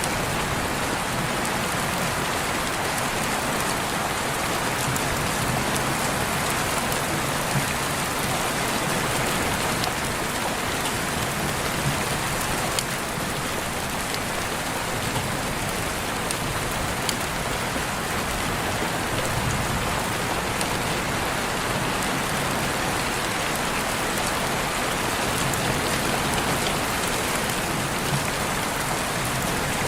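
Steady rain falling, an even hiss with occasional distinct drops ticking on a surface.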